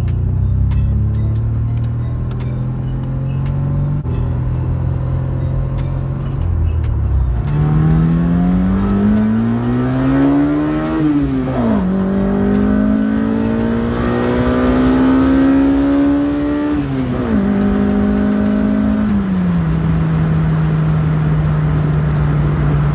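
Car engine heard from inside the cabin, running low and steady at first, then accelerating with revs climbing. It shifts up twice, the pitch dropping sharply each time, about halfway through and again about three-quarters through, then settles to a steady cruise.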